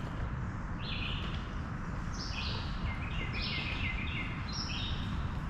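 A songbird chirping: short, clipped notes that step down in pitch, one about a second in, a quick cluster of several in the middle and another near the end, over a steady low background noise.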